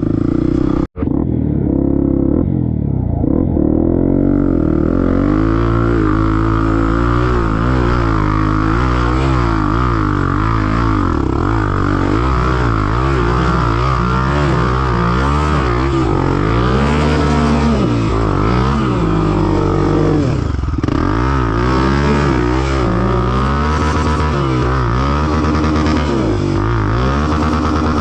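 Trail motorcycle engine running under load, its pitch rising and falling over and over as the throttle is worked. There is a momentary gap about a second in.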